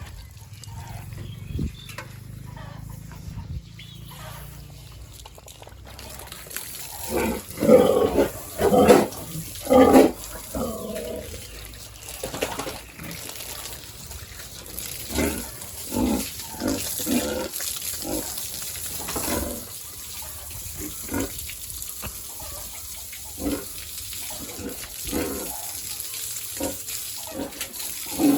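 Pigs grunting in a run of short, repeated calls, loudest in a cluster a few seconds in and then more scattered.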